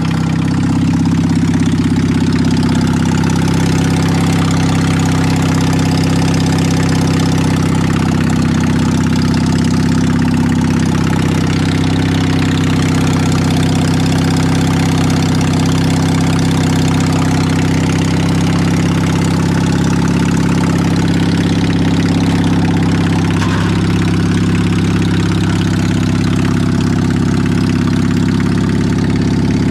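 Carbureted engine idling steadily on a cold start, running for the first time since its air cleaner was reinstalled, which the owner thinks probably needs adjustment.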